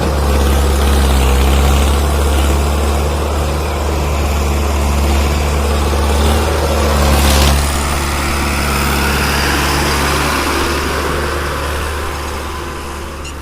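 Mahindra Arjun 605 tractor's diesel engine running loudly and steadily, with a single sharp crack about seven seconds in; the sound fades away over the last few seconds.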